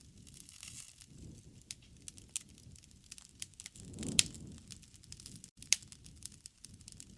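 Wood campfire crackling: irregular sharp pops over a low rumble of burning, with the loudest pop about four seconds in and another a little under six seconds in.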